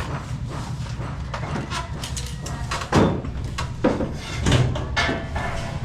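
A hand pop rivet gun fixing fibre-cement ceiling boards to a metal frame makes a handful of sharp snaps and knocks. The loudest comes about three seconds in, with several more in the following two seconds.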